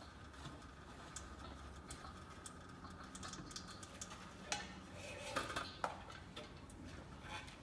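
Irregular clicks and metallic clinks of hand tools and parts being handled during an oil change, with a few louder ringing clinks about halfway through.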